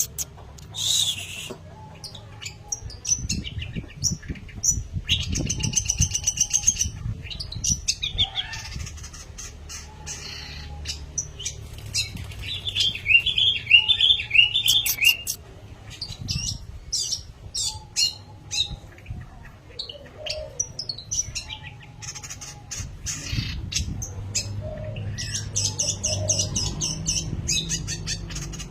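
Long-tailed shrike singing in bursts: a varied run of chirps, harsh raspy notes and fast repeated trills, with short pauses between phrases, over a steady low background hum.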